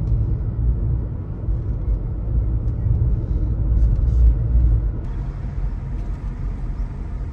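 Low, steady rumble of a car in motion, with road and engine noise. It starts abruptly at a cut.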